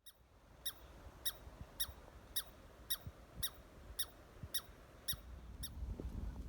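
A small forest animal repeating a short, high call about twice a second, ten times, each call with a quick falling note beneath it. A low rumble underneath grows louder near the end.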